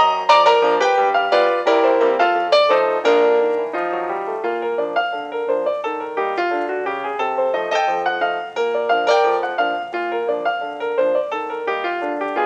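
Background piano music: a flowing run of quick notes, struck and fading one after another.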